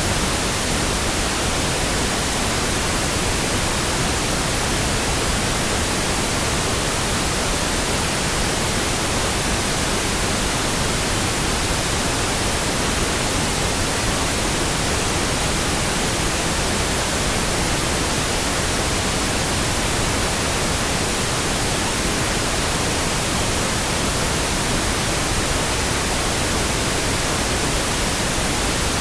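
Steady pink noise: an even, unchanging hiss with no breaks or events.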